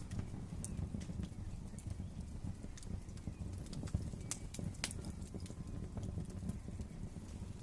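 Wood fire crackling in a fireplace: irregular sharp pops and snaps over a low steady rumble of the flames, with a cluster of louder pops about four to five seconds in.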